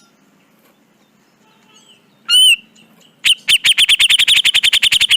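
Cucak jenggot bulbul calling: one loud short note about two seconds in, then a fast, harsh chattering run of about a dozen notes a second through the last two seconds.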